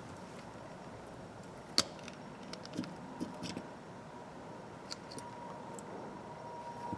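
Scattered light clicks and taps of small ratchet parts being handled as the ratchet is taken apart, with one sharper click about two seconds in.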